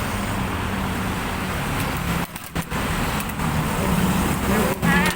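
Steady loud background noise with a low hum; a voice starts near the end.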